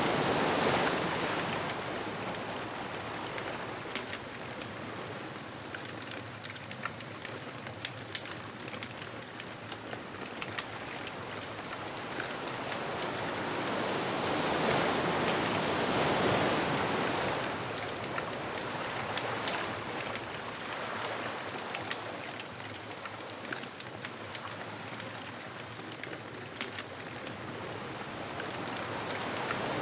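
Ocean waves washing onto a beach as an even hiss of surf, swelling twice as a wave breaks, about fifteen seconds apart. Scattered faint crackles from a bonfire run through it.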